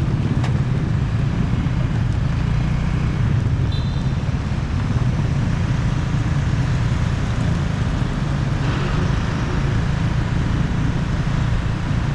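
Motorcycle being ridden: steady engine and road noise.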